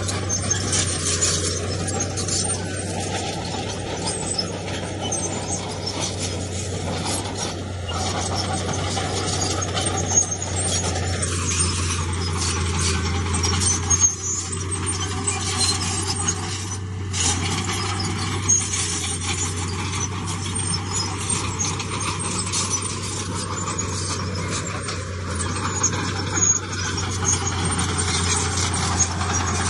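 Crawler bulldozer at work: its diesel engine runs at a steady pitch while the tracks give off continual high squeaking and metallic clicking.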